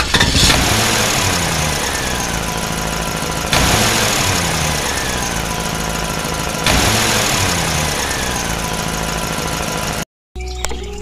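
Loud, noisy engine sound that starts over about every three seconds, each time with a jump in level and a pitch that falls away.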